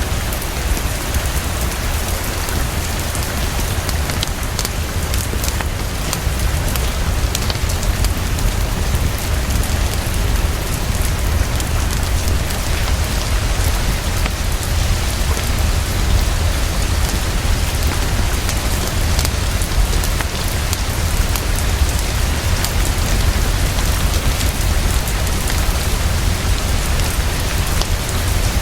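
Heavy, fast, steady rainfall with a constant low rumble underneath, and scattered faint ticks of individual drops.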